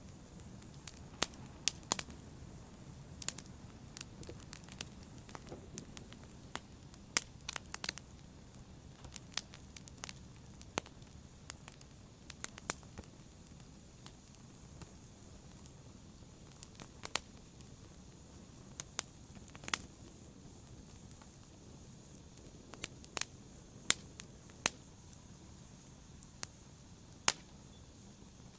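Wood logs burning in a fireplace: a low, steady rush of flame with irregular sharp crackles and pops, about one or two a second, standing out loudly above it.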